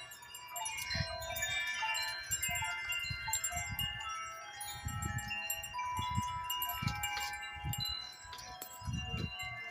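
Several metal wind chimes ringing in gusty wind, many overlapping tones struck and ringing on. Gusts of wind rumble on the microphone every second or so.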